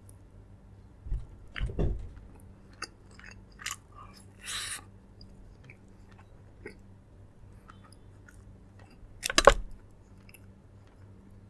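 A person chewing a mouthful of food, with small mouth clicks and a few sharp knocks; the loudest knock comes about nine and a half seconds in.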